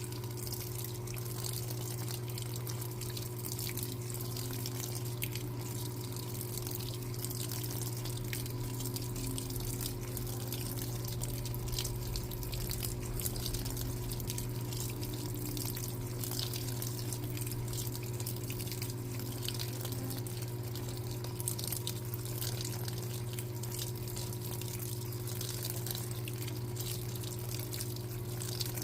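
Electrolux LTA15 top-loading washing machine at work, a steady low hum under water trickling and splashing in the tub.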